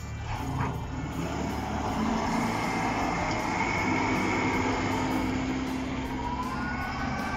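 Road vehicle noise: a steady engine and road hum, with wavering higher tones coming in during the second half.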